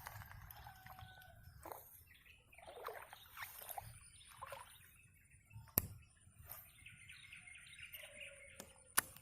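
Wild birds in swamp scrub calling and chirping, a string of short warbling calls and then a longer chattering call. Two sharp clicks cut in, one about six seconds in and one near the end.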